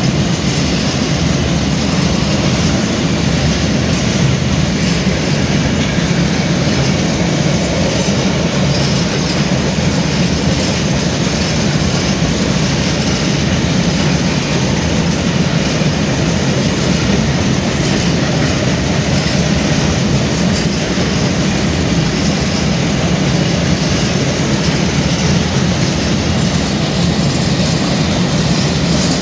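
Freight train of open coal wagons rolling past close by: a steady, loud rumble with the clatter of wheels over the rail joints.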